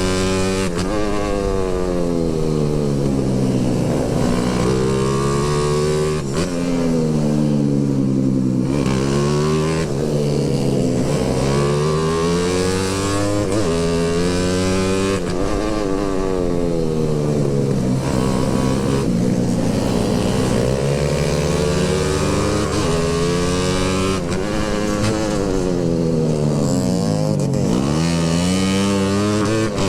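Motorcycle engine being ridden, its pitch rising and falling again and again as the throttle is opened and closed every couple of seconds.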